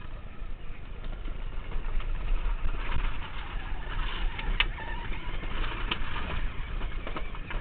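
Quad bike ride heard through a helmet-mounted camera: a low, uneven rumble, with a few sharp clicks or knocks about four to six seconds in.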